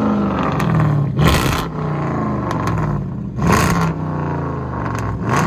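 Chrysler 300S's 5.7-litre HEMI V8 through straight-piped true dual exhaust, revved in short blips that fall back to a loud idle between them, about every two seconds.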